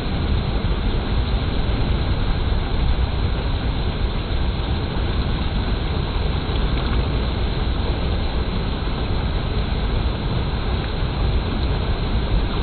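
Clear water flowing, a steady even rush of noise that does not change.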